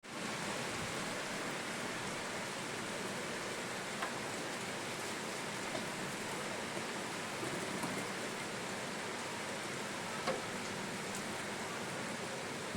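Steady summer rain falling, an even hiss with a few louder single drop hits; the loudest comes about ten seconds in.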